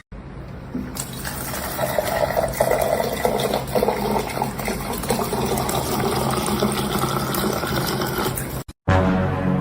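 Steady rush of running water, like a tap, with a faint low hum underneath; it cuts off abruptly near the end.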